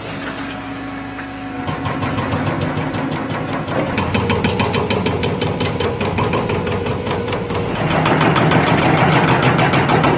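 Hydraulic breaker hammering in a fast, even rhythm over a running diesel engine. The hammering starts about two seconds in and grows louder near the end.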